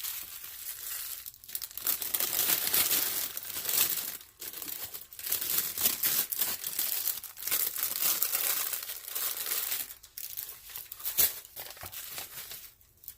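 Plastic packaging being handled, crinkling and rustling continuously with a few short pauses.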